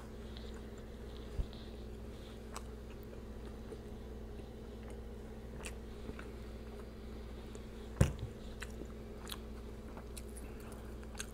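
Close-miked chewing and biting of a cheese-shell taco, with faint crunches and mouth clicks over a steady low hum, and one thump about eight seconds in.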